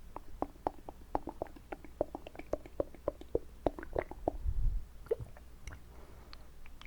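Wet mouth sounds close to the microphone: quick tongue-and-lip clicks and smacks, about four or five a second, with a low thump about four and a half seconds in, after which the clicks grow sparser and fainter.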